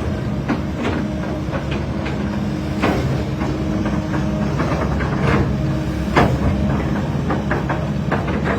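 Excavator's diesel engine running steadily, with irregular metallic clanks and knocks from the working machine. The sharpest knock comes about six seconds in.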